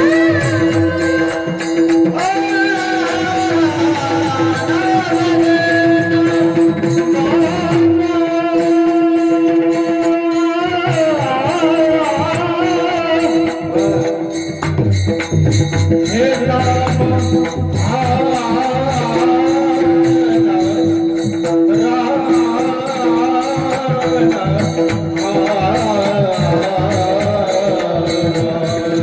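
Marathi Varkari bhajan: a high male voice sings an abhang melody over a steady held harmonium drone. Small hand cymbals keep an even beat, with drum strokes underneath.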